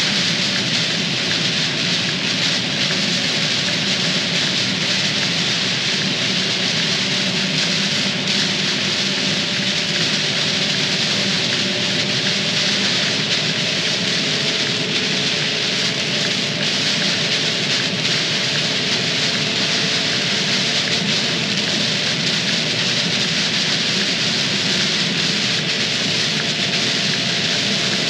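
Heavy rain hitting a dump truck's cab and windshield as it drives through a storm: a loud, steady hiss, with the truck's engine faintly running underneath.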